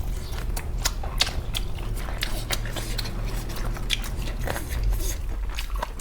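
Close-up eating sounds: a person biting and chewing crunchy food, with irregular sharp crunches and crackles over a steady low hum.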